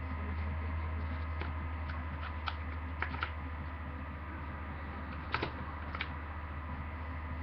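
A sheet of paper being folded and creased by hand, heard as scattered short rustles and taps over a steady low hum.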